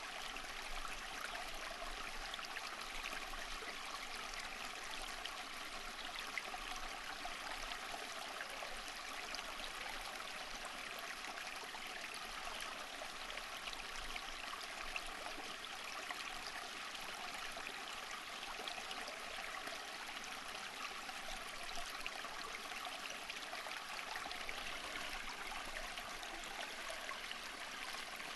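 Water flowing steadily, an even rush of running water flecked with small splashes and trickles.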